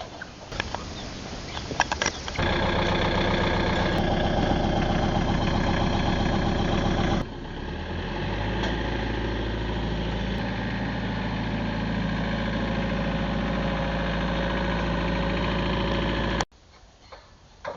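A vehicle engine cranking with clicks, catching about two seconds in and running fast, then settling to a steady idle about seven seconds in. The sound cuts off abruptly near the end.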